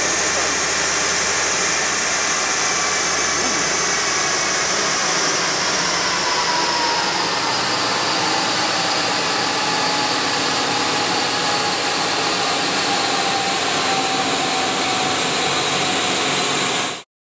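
Smart fortwo (451) running on a rolling-road dyno during its warm-up, mixed with the steady rush of the large dyno cooling fan blowing at its front. A few tones in the noise drift slowly lower around the middle, and the sound cuts off suddenly near the end.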